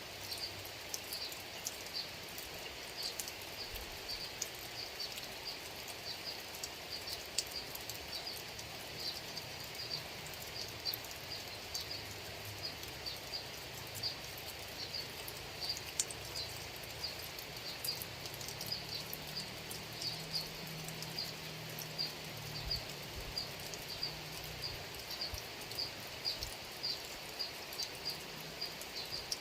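Steady rain falling, an even hiss, with a small animal's short high chirps repeating roughly every second throughout.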